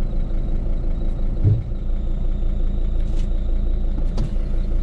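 Steady low rumble of a van's engine running, with a brief low thump about a second and a half in.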